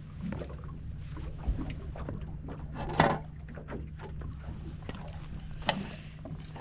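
Knocks and handling noise in a small fishing boat over a steady low hum, with a sharp knock about three seconds in and another near the end.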